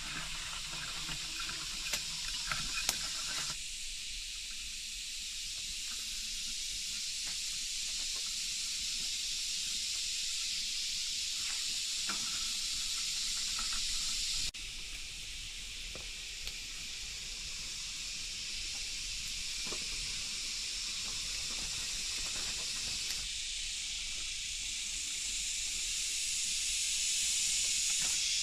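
Steady hiss of rain falling in a forest, with a few faint ticks of drops scattered through it.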